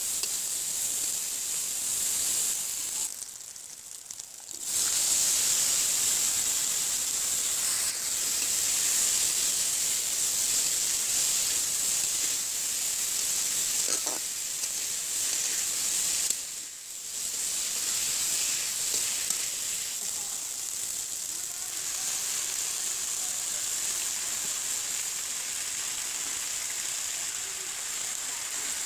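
Hot oil sizzling steadily in a large aluminium karahi as onions, green chilies and potato sticks fry, with the sizzle dropping away briefly twice.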